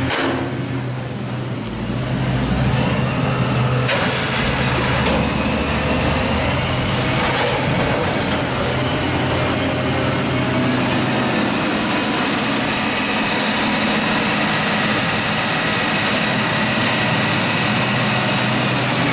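Heavy farm machinery running steadily during a maize silage harvest, with a faint high whine from about eleven seconds in.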